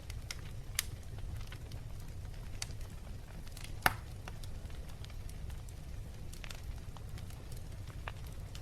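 Wood fire burning in a fireplace: a steady low rumble of flames with scattered crackles and pops, the sharpest pop just under four seconds in.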